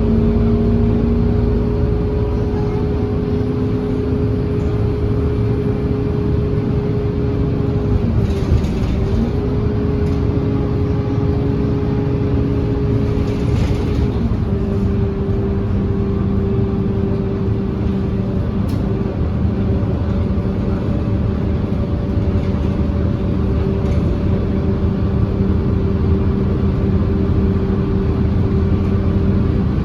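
Scania K230UB city bus running along, with its engine and drivetrain giving a steady hum and whine. The pitch dips briefly about eight seconds in, then drops to a lower steady note around fourteen seconds in, as engine speed changes.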